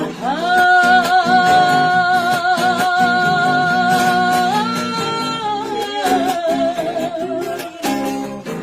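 A singer holds one long high note with vibrato for about four seconds over a strummed acoustic guitar, then moves to a shorter note and a wavering run, with the guitar strumming on underneath.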